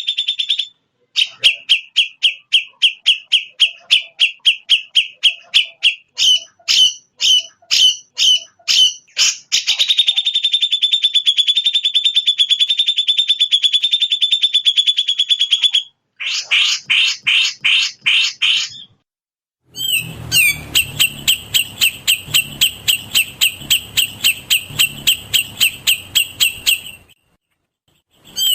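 Recorded songbird song played back loud: rapid, evenly repeated high chirps of about five notes a second, merging into a continuous fast trill for several seconds. The song breaks off three times with short pauses, and each new phrase has a different pattern of repeated notes.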